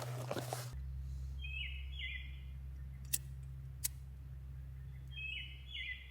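Crinkling handling noise that stops within the first second. Then a bird calls twice, each a short phrase of a few stepped notes, about four seconds apart, with two sharp clicks in between.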